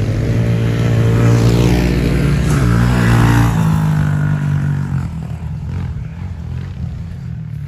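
Small single-cylinder pit bike engine revving hard, its pitch dipping and climbing again, then fading away after about halfway as the bike rides off.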